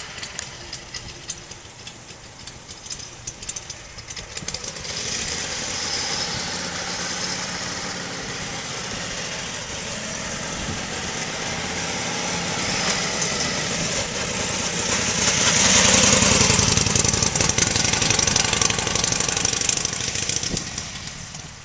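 1941 Harley-Davidson EL Knucklehead's 61 cubic inch overhead-valve V-twin running on half choke, warming up just after a cold start. It swells louder about fifteen seconds in and eases off again near the end.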